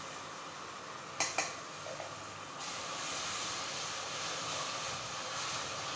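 Ground tomato and green chilli paste going into hot oil and fried onions in a steel pot. There are two sharp knocks against the pot about a second in, then a steady sizzle from about two and a half seconds as the wet paste fries and is stirred with a wooden spoon.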